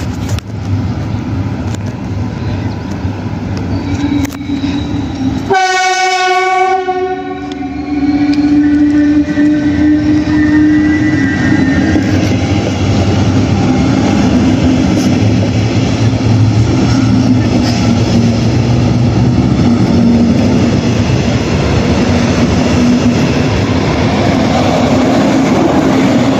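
DB class 112 electric locomotive hauling double-deck coaches, sounding its Makrofon horn once for about a second and a half, about six seconds in. The train then runs past with a loud, steady rumble and a low hum.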